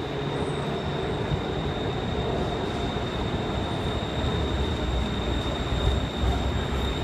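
Urban rail train running: a steady low rumble with a thin, steady high whine held over it.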